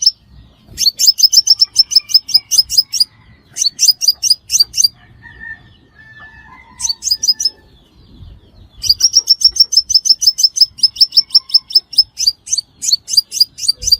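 A sunbird singing rapid trains of sharp, high chirps, about six a second, in bursts of one to three seconds with short pauses and a long run in the second half. It is a recorded lure song used to draw sunbirds to a trap.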